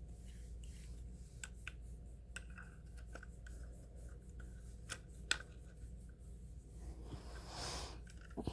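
Faint small clicks and taps of a model train part being handled and fitted back together by hand, with a brief rubbing scrape about seven seconds in.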